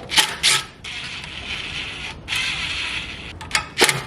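Socket ratchet clicking rapidly as a fastener is turned, with a few sharp metallic clinks of the tools near the start and the end.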